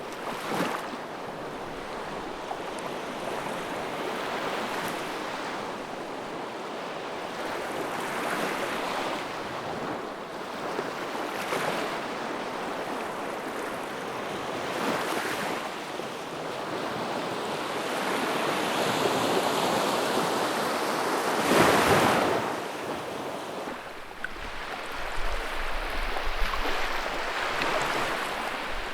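Wood fire burning in a fireplace: a steady rushing hiss that swells and eases every few seconds, with scattered sharp crackles and pops, several near the end.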